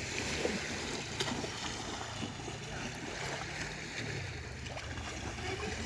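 Small waves washing on the beach shore: a steady rushing hiss with a low rumble underneath.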